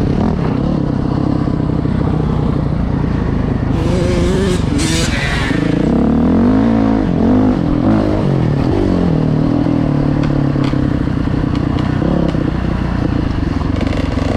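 Dirt bike engine running under load, its revs rising and falling several times in the middle as it accelerates and shifts, with a brief hiss about four seconds in.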